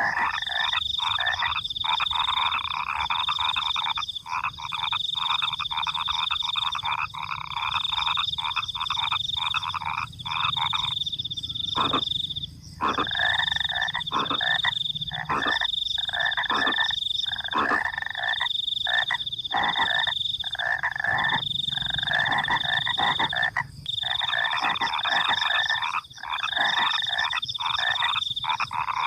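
A dense chorus of frogs croaking rapidly, with brief pauses now and then, over crickets trilling high in repeated stretches of a second or two.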